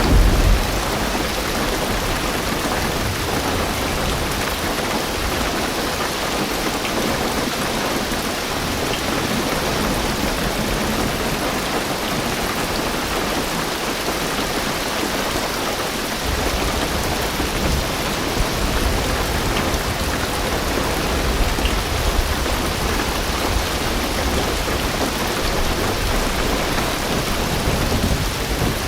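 Heavy rain drumming steadily on a car's roof and windows, heard from inside the car. A deep rumble of distant thunder rolls in about halfway through and carries on to the end.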